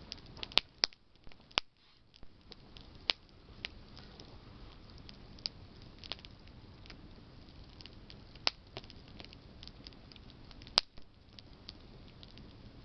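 Wood campfire burning: burning branches crackle and pop at irregular intervals over a low, steady hiss, with a handful of louder, sharper pops scattered through.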